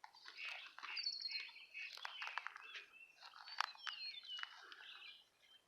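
Red-winged blackbird singing: faint, repeated short chips and trilled notes with a couple of falling whistles.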